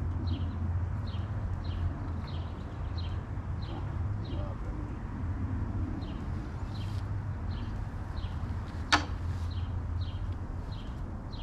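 A bird calling over and over, a short falling chirp about twice a second, above a steady low hum, with one sharp click about nine seconds in.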